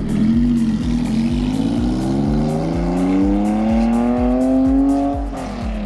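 Car engine revving out: its pitch climbs steadily for about five seconds, then drops off as the throttle is released near the end. A steady music beat runs underneath.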